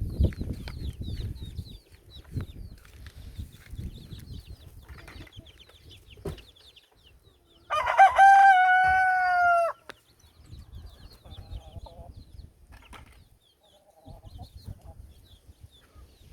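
Chickens clucking softly, with faint high short calls throughout, then a rooster crows once, loud and about two seconds long, roughly eight seconds in.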